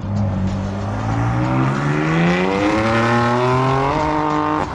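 A car engine under acceleration, its pitch climbing steadily for about three seconds, then holding before it cuts off sharply near the end.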